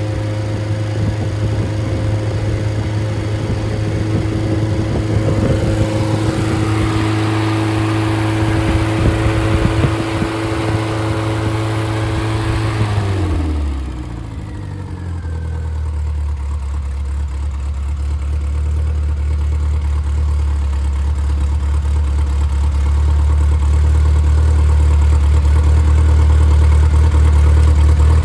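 Freshly rebuilt Triumph 1500 four-cylinder engine (MG Midget/Triumph Spitfire) running from cold, steady at a raised speed, then dropping to a slower, steady idle about halfway through.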